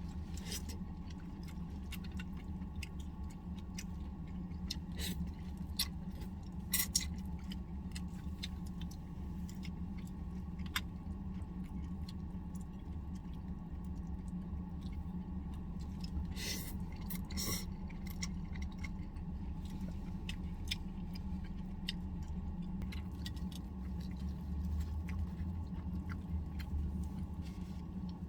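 A person eating: scattered small clicks of chopsticks and tableware, with chewing and a few brief louder slurping or rustling noises, over a steady low hum.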